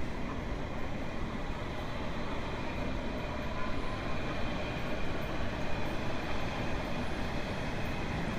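Steady rumble of a train running along the track, heard as continuous rolling noise without distinct clicks.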